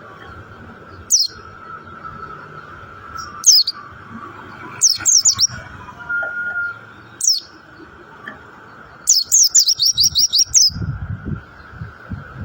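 Mountain white-eye (pleci montanus) singing: short, high chirps that sweep sharply downward, a few single notes and short groups, then a fast run of about ten notes near the end. A faint steady hum runs underneath.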